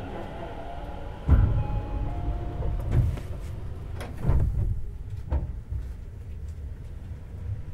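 Tobu 50090 series electric train heard from near the underfloor of a car: a steady low rumble broken by several heavy thumps, the loudest about a second in and others around three, four and five seconds.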